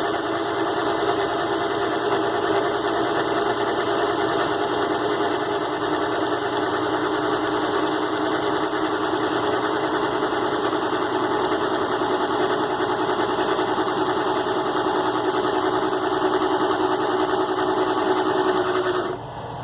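ZhouYu 6-in-1 mini lathe running steadily on its DC motor, turning an aluminum bolt probe while an O-ring groove is cut. The machine is switched off just before the end.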